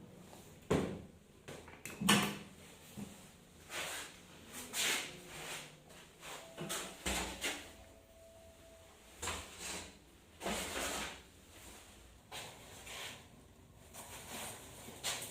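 A dozen or so irregular knocks and clunks, with quieter handling noises between them.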